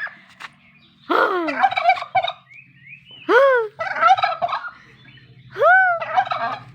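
Domestic turkey gobbling three times, each gobble a quick rattling call about a second long, a couple of seconds apart.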